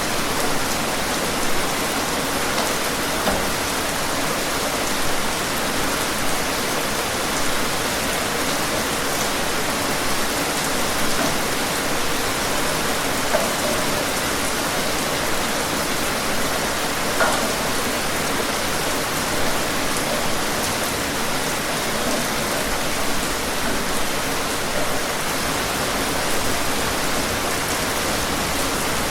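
Steady, heavy rain falling, a dense even hiss with scattered louder drop hits.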